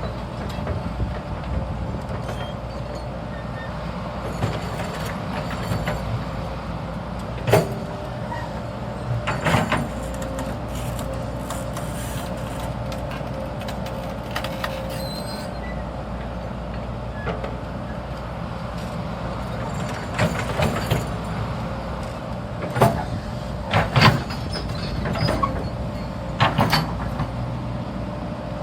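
A hydraulic excavator's diesel engine running steadily, with sharp knocks at intervals: one about a quarter of the way in, another soon after, and a cluster of them near the end.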